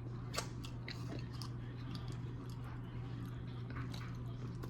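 Close-up chewing and mouth sounds of someone eating, with scattered small wet clicks.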